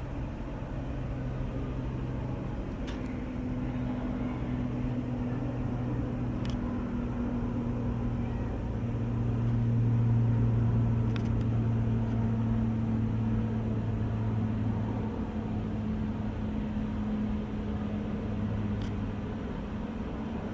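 Four-engine turboprop of an HC-130J rescue tanker, its propellers running with a steady low drone. The drone grows louder to a peak about halfway through, then eases off.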